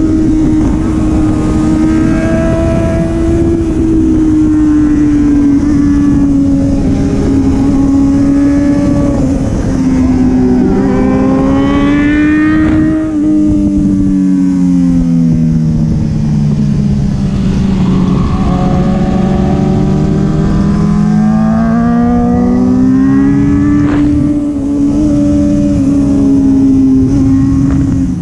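Sport motorcycle engine running steadily on the road, its pitch slowly falling and rising again as the throttle changes, with wind noise rushing underneath.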